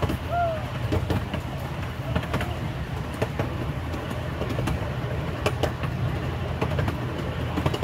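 Amusement-park ride train running steadily, heard from aboard: a low rumble with irregular clicks and knocks from the wheels and cars.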